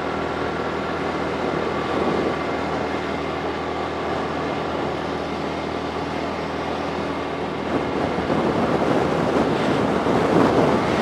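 Motorcycle running steadily while riding, with road and wind noise on the microphone; it grows louder about eight seconds in.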